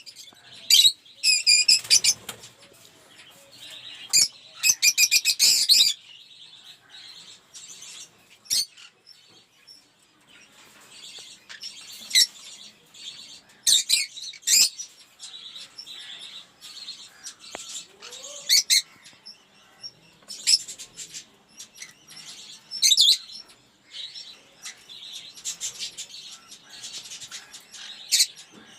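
A flock of lovebirds in an aviary chirping and chattering, with sharp, shrill calls that come in quick bursts over a steady background twitter.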